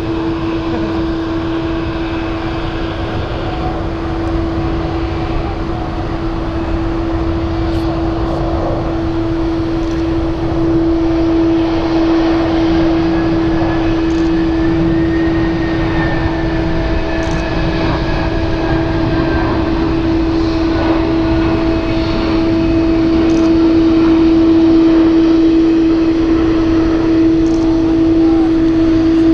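Jet airliner engines running with a steady drone over a broad rumble, growing louder from about a third of the way in.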